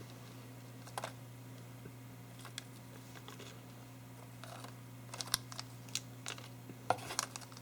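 Plastic packaging inserts of a model box being handled: scattered light clicks and rustles, more frequent in the second half, over a steady low hum.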